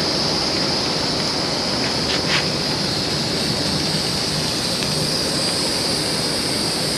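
Steady hissing sizzle of oiled vegetables and chicken cooking on a grill over a campfire, with a couple of faint pops about two seconds in.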